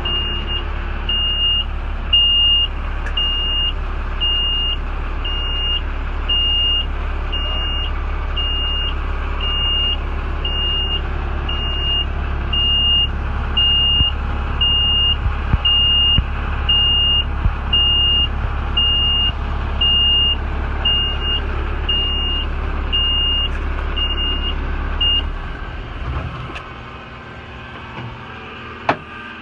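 International DuraStar 4300 truck's backup alarm beeping about once a second over the steady drone of its idling diesel engine. The beeping and the engine both stop near the end.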